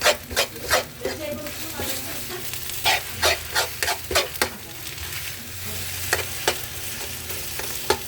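Spatula scraping and tossing fried rice (sinangag with chicken) in a hot pan over a steady sizzle, the scrapes coming in quick runs of strokes with quieter stretches between.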